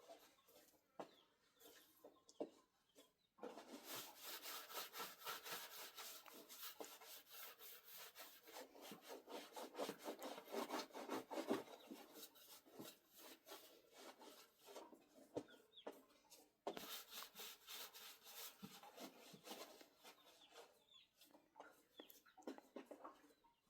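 Fast, rhythmic rubbing or scraping strokes, starting a few seconds in, breaking off briefly about two-thirds of the way through, then tailing off shortly before the end.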